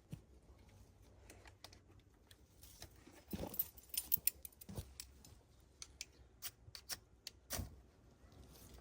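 Irregular light clicks and knocks, with a denser run of knocks about three and a half seconds in and a few sharp clicks near the end.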